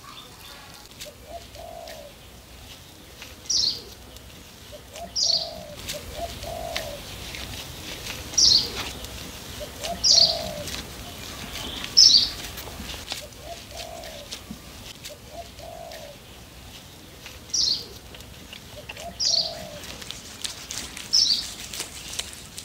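Birds calling outdoors: a short, sharp, high call repeated about every two seconds, in a run of five and then, after a pause, a run of three, and these are the loudest sounds. Softer, lower calls come in between.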